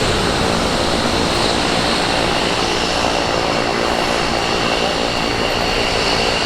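F-15 Eagle jet fighter's twin turbofan engines running loud and steady as the jet departs, a rushing jet noise with a faint high whine over it.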